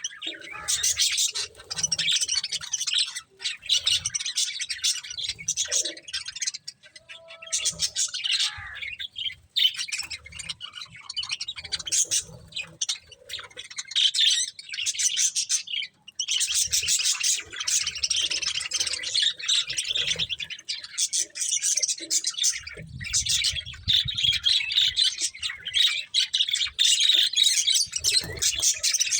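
Several budgerigars chirping and chattering almost continuously, with a few brief pauses and occasional low knocks.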